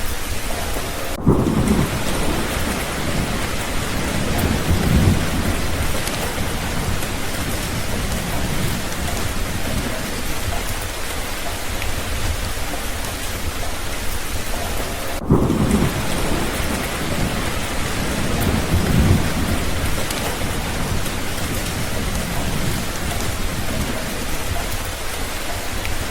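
Steady rain with thunder rumbling twice: a low roll starts suddenly about a second in and again about fifteen seconds in, each swelling once more a few seconds later.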